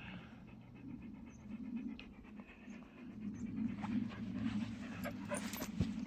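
Rapid, rhythmic panting close to the microphone, with a few short knocks or scuffs in the second half.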